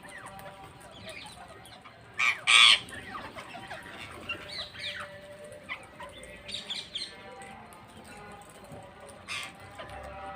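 Parrots calling: a steady chatter of short chirps, broken by loud harsh screeches twice about two seconds in and again a few times later.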